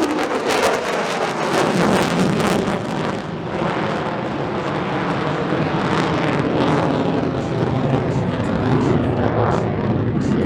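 F-35A Lightning II's afterburning turbofan running as a steady jet roar, with wind buffeting the microphone.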